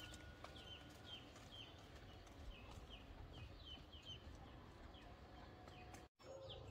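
Birds chirping faintly: a run of short, high, falling chirps several times a second over a low background rumble. The sound drops out for a moment near the end.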